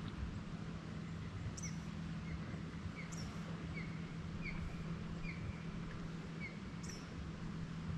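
Birds calling in the background: a series of short repeated chirps, with a few sharper high, falling notes. Under them runs a steady low hum with a haze of noise.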